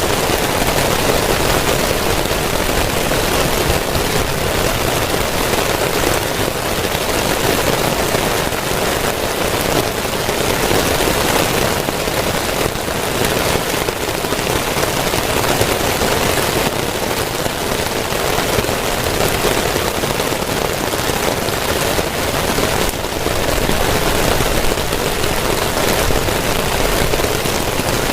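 Heavy rain falling steadily and without let-up, a dense, even wash of drops striking a surface.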